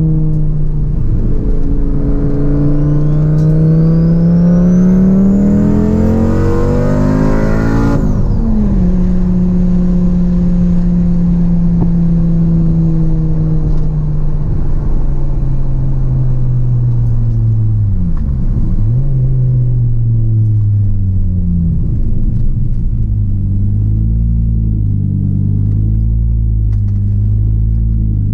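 Audi UrS4's turbocharged 2.2-litre inline-five heard from inside the cabin, pulling hard under acceleration. Its pitch climbs for several seconds with a high whistle rising above it, then drops sharply at a gear change about eight seconds in. It then cruises with the pitch slowly sinking, dips briefly at another shift past the middle, and climbs again at the very end.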